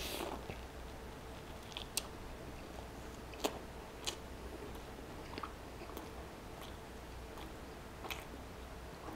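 A person biting into a grilled cheese sandwich, the bite loudest at the start, then chewing it with a few sharp clicks and crunches every second or so.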